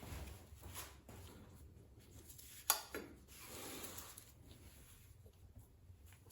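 Faint handling and scraping sounds of work on parts, with one sharp click about two and a half seconds in.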